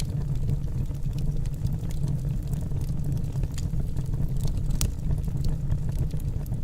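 Logs burning in a fireplace: a steady low roar of the fire with irregular sharp crackles and pops of the wood, one louder pop about two-thirds of the way through.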